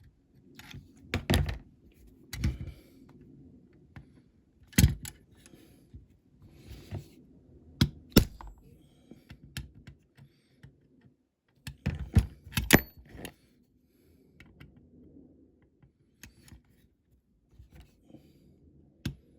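Hammer tapping a centre punch against the filed-flat rivet post of a diecast toy's baseplate: about seven sharp metal taps spaced irregularly, a couple in quick succession, with lighter clinks of tools being handled between. The taps are setting a dent to start a drill in the post.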